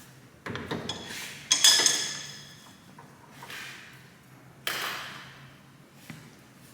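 Metal parts knocking and clinking as they are handled. The loudest is a single ringing metallic clank about a second and a half in, with another knock a few seconds later.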